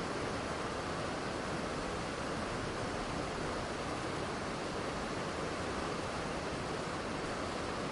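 Waterfall running, a steady even rush of falling water with no breaks or changes.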